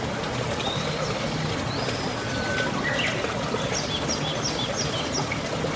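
Small birds calling over a steady trickle of running water. There is an arched whistle about two seconds in, then a quick series of five or so short high chirps near the end.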